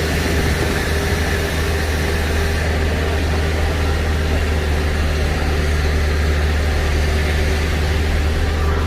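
Loaded truck's engine running steadily on the road, a constant low hum with road noise.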